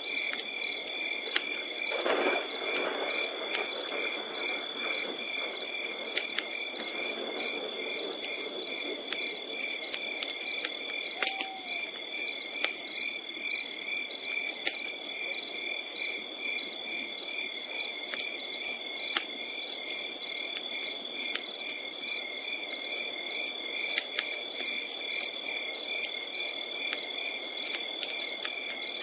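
Crickets or other night insects chirping steadily in a pulsing chorus, about three pulses a second, over the scattered sharp pops and crackles of a campfire.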